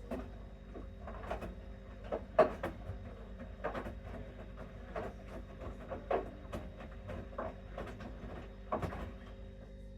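Bosch Series 6 front-loading washing machine in its main wash: a steady motor hum under irregular knocks and swishes as the wet laundry tumbles in the turning drum, the loudest knock about two and a half seconds in.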